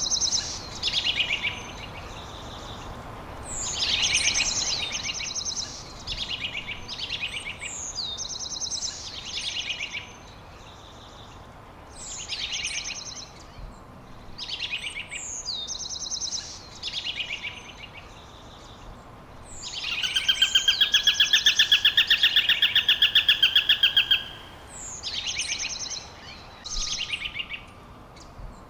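Songbirds singing: a short phrase repeated every few seconds, a quick falling whistle run into a rapid series of notes. About two-thirds of the way through comes a louder, fast, even trill lasting about four seconds.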